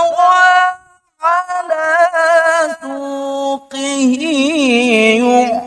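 A man's voice reciting the Quran in the melodic, drawn-out tajwid style. He holds long notes with wavering ornamental runs and takes a short breath about a second in.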